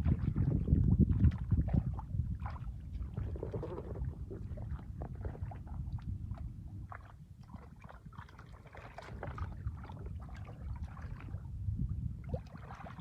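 Water splashing and sloshing in shallow water in irregular bursts over a low, continuous rumble.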